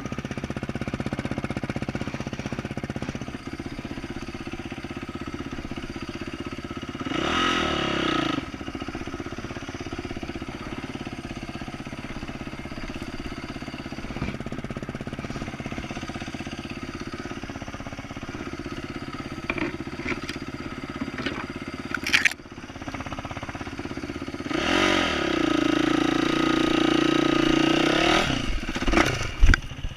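2012 Yamaha YZ450F single-cylinder four-stroke dirt bike engine with an aftermarket exhaust, running at low revs and revving up twice, briefly about a quarter of the way in and for a few seconds near the end. A few sharp knocks come between the revs and at the very end.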